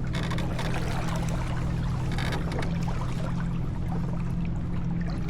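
Water rushing and splashing along the hull of a J24 sailboat under way, with brief louder splashes about a third of a second and two seconds in. A steady low hum runs beneath it.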